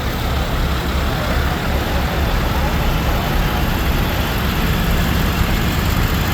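Fire truck engine running with a steady low rumble, with people's voices in the background.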